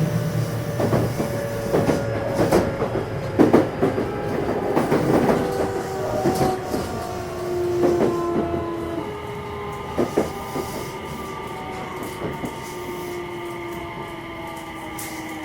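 Running sound from under a JR West 227 series electric train's motor car: the Hitachi IGBT VVVF inverter and traction motors whine in several tones that slide slowly downward as the train slows for a station, with wheel clicks over rail joints. A steady high inverter tone holds from about the middle on, and the level eases off toward the end.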